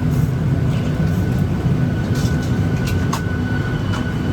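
Steady low rumble of an airliner cabin at the gate, with a faint steady high whine and a few light clicks.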